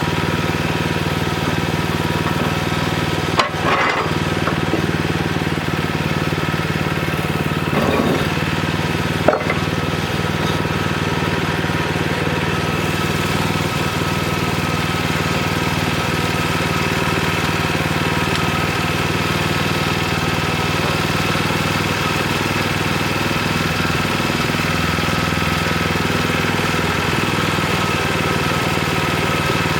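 Wood-Mizer LX25 portable sawmill's small engine running steadily, with a few brief knocks about 3.5, 8 and 9 seconds in.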